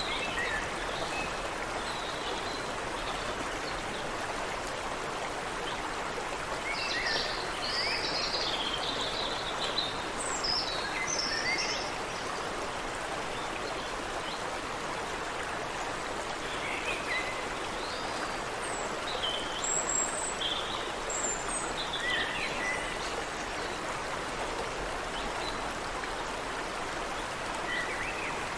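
Creek water running steadily, with several songbirds chirping and trilling over it in short scattered phrases.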